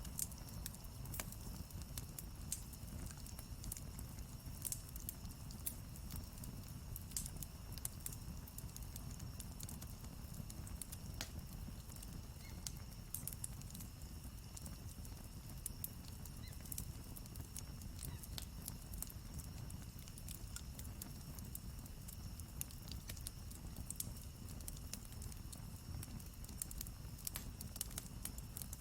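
Campfire wood burning and crackling, with frequent sharp pops and snaps over a steady low rumble of the flames.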